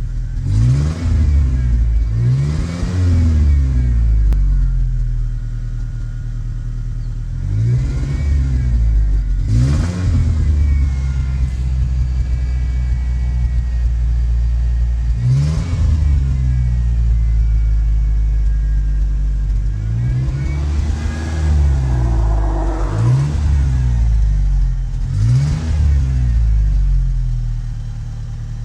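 1986 Ford Ranger's 2.3-litre four-cylinder engine running at idle, its speed repeatedly swinging up and dropping back, about eight times: the inconsistent, rough idle that the owner has not been able to fix.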